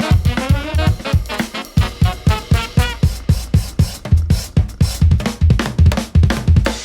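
Live pop-funk jazz band with the drum kit out front, playing a busy pattern of kick, snare and hi-hat several strokes a second, with bass and other pitched instruments underneath.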